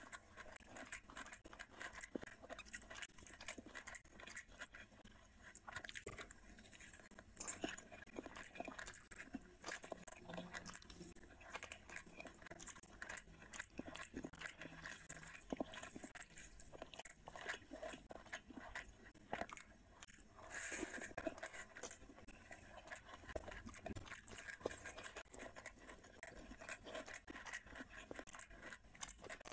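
Close-miked chewing of a person eating rice and curry by hand, with many small crunches and mouth clicks.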